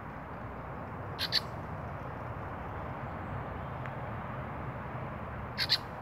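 Bird calls: two short, high-pitched double notes, one about a second in and another near the end, over steady outdoor background noise.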